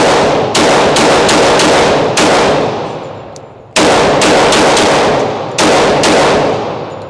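Glock pistol fired in quick strings, about a dozen shots in all, in two strings with a lull of about a second and a half between them. Each shot trails a long echoing decay.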